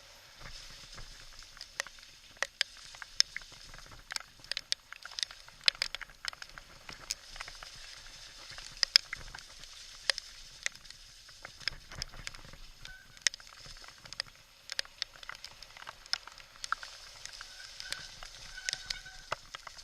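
Irregular sharp taps and clicks over a steady hiss as a full-suspension mountain bike descends a rocky trail in heavy rain.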